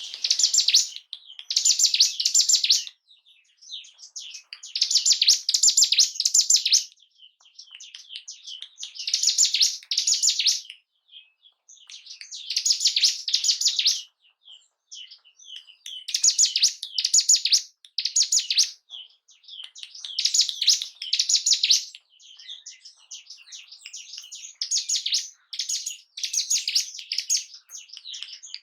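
Ciblek gunung (a mountain prinia) singing: loud, high, rapid song phrases of a second or two, repeated about every four seconds, with softer chattering calls between them. This is a lure song meant to excite a kept bird.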